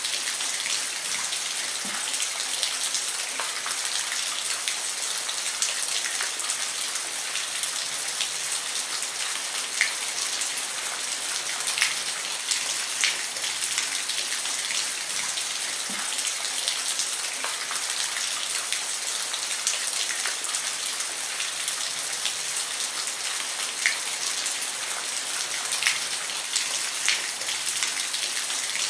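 Steady rain falling on a roof: an even hiss with many sharp individual drops ticking through it.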